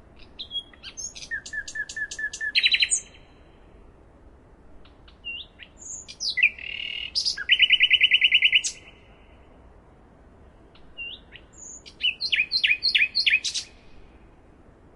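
A songbird singing three phrases a few seconds apart, each opening with scattered high chirps and building to a fast trill of rapidly repeated notes.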